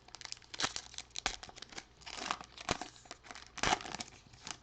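Crinkling and tearing of a Contenders football trading-card pack wrapper being ripped open and crumpled: irregular crackles, with louder rustles about a second in, around two seconds, and near the end.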